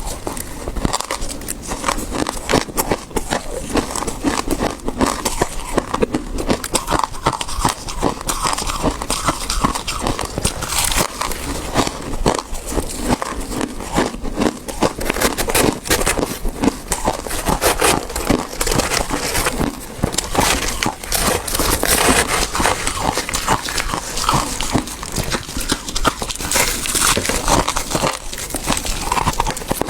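Close-miked chewing of freezer frost, powdery soft ice crunching and squeaking between the teeth in a dense, unbroken run of small crisp crunches.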